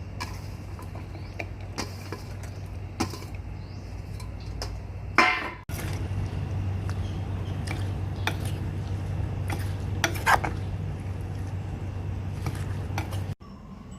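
Kitchen utensils clinking and knocking against dishes during food preparation, as scattered clinks over a steady low hum, with a louder clatter about five seconds in.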